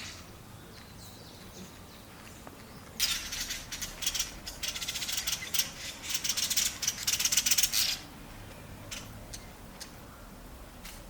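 Black-headed weaver song: a five-second burst of fast, buzzy chatter made of rapid clicks, starting about three seconds in, with a few single clicks and calls before and after it.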